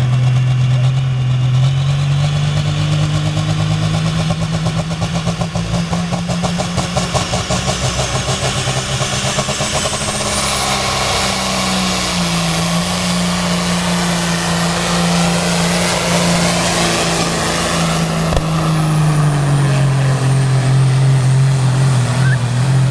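Truck-pull pulling truck's engine running hard under load, its pitch climbing early on, stepping up about halfway and dropping back near the end. A faint high whistle rises about ten seconds in and falls away near the end.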